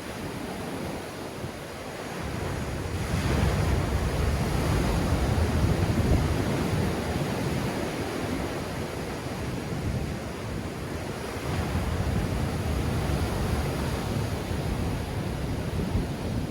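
Black Sea surf breaking and washing on the shore in a strong wind, with wind rumbling on the microphone. The surge swells about three seconds in and stays heavy.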